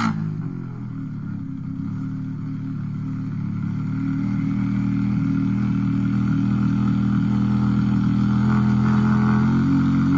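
Rally car engine running at steady high revs, growing steadily louder over several seconds as the car approaches.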